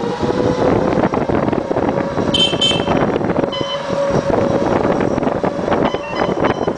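Mini bike's small engine running steadily under way, with wind rushing on the microphone. About two and a half seconds in, a brief high-pitched horn toot.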